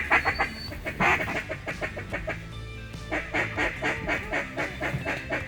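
Rapid runs of duck quacks, several a second, in strings that start loud, pause briefly in the middle and pick up again. Music plays underneath.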